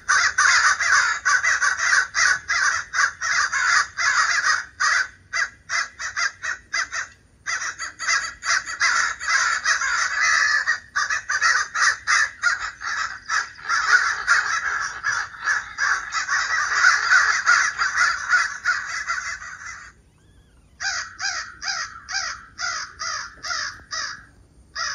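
Recorded calls of several crows cawing rapidly in an agitated, excited tone, played from a Bluetooth speaker. The caws come thick and overlapping, stop briefly near the end, then resume as a run of single caws about three a second.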